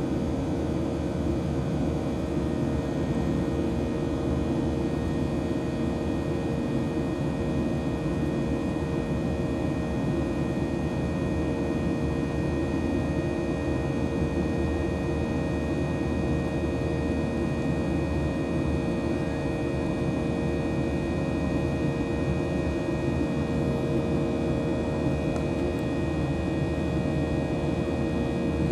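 Airplane cabin noise: a steady, unchanging drone of engines and rushing air, with a few constant hum tones running through it.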